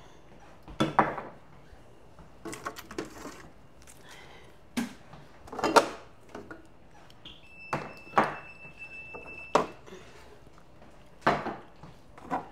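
Jars, bottles and containers being handled and set down while a refrigerator is emptied: a string of separate knocks and clatters. About seven seconds in, a steady high-pitched tone sounds for about two seconds.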